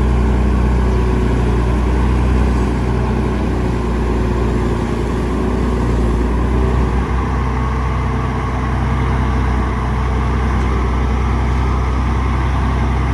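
Diesel engine of heavy earthmoving machinery running steadily, a deep engine tone holding an even pitch.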